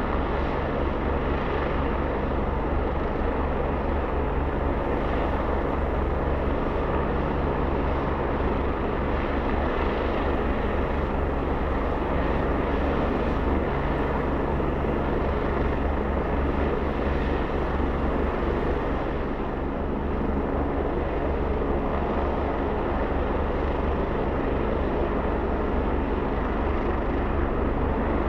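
Helicopter running steadily close by: turbine and rotor noise with a rapid, low beat from the rotor blades, at an even level throughout.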